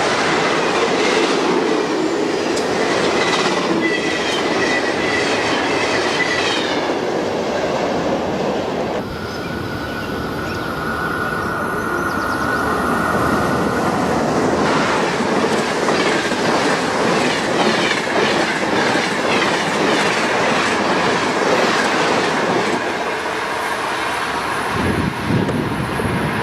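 A train rolling past close by, its wheels clicking steadily over rail joints, with a high wheel squeal now and then.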